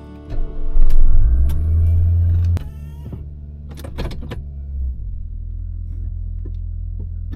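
Small car engine starting: a short crank, then it catches with a loud surge about a second in, holds a fast idle and drops back to a steadier, lower idle. Several sharp clicks and knocks sound around the middle.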